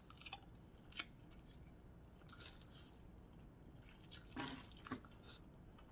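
Faint, wet eating sounds: soft chewing with a few small smacks and clicks, the loudest near the end.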